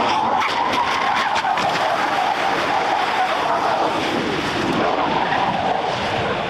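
Car driven hard at speed, its engine running loud and steady, with a quick run of sharp clicks about half a second to a second and a half in.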